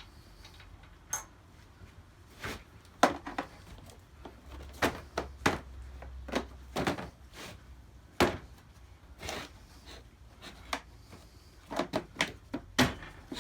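Tools and parts being handled and set down on a workbench: irregular knocks, clunks and clicks, about a dozen, the loudest about 3 s in.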